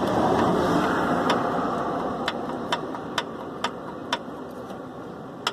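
Sharp clicks about twice a second, starting about a second in: a piston in a VW AP engine being rocked by hand, its skirt knocking against the cylinder wall from excess clearance (piston skirt slap). Under them, a passing car on the road fades away.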